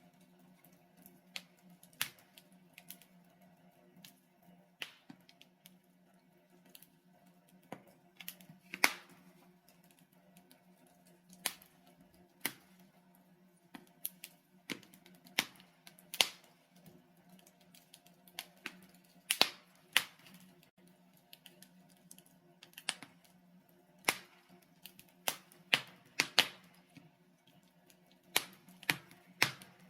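Burning logs in a fireplace crackling: irregular sharp pops and snaps, a few every couple of seconds and some much louder than others, over a steady low hum.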